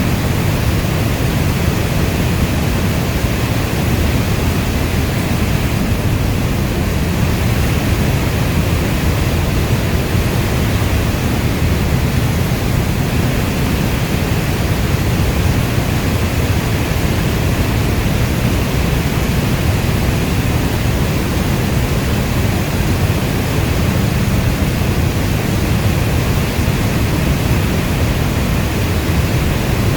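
Steady rainstorm: an even, unbroken hiss of rainfall with a deep low rumble underneath, and no single drops, drips or thunder standing out.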